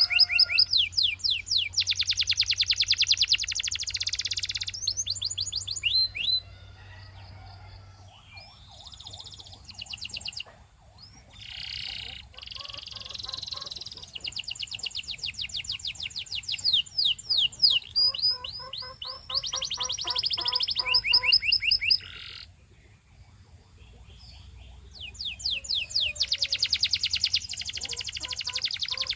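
Domestic canary singing: long trills of rapidly repeated high notes, in phrases broken by short pauses.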